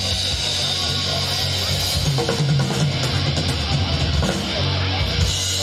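Live rock band playing an instrumental passage: distorted electric guitar over steady bass notes and drums.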